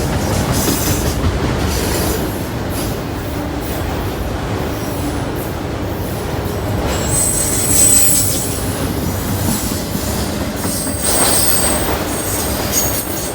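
CSX freight train's cars rolling past on the rails: a steady rumble and clatter, with brief high-pitched wheel squeals about seven and eleven seconds in.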